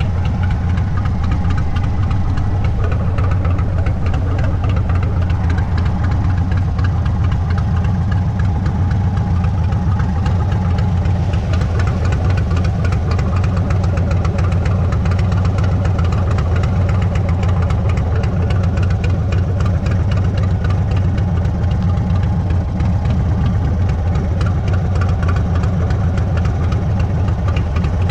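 Indian Sport Chief's stage 2 Thunderstroke 116 V-twin running steadily through a Sawicki Speed exhaust, its low exhaust pulses even throughout.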